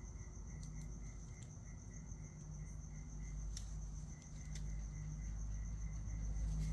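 Insects chirping steadily, a high pulsed trill repeating a few times a second, over a low rumble, with a few faint clicks.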